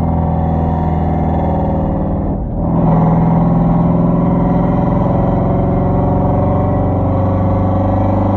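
Exhaust of a Hyundai Genesis 5.0 V8, straight-piped with Flowmaster Super 10 mufflers and no catalytic converters, running steadily while driving. The note dips briefly about two and a half seconds in, then comes back a little louder.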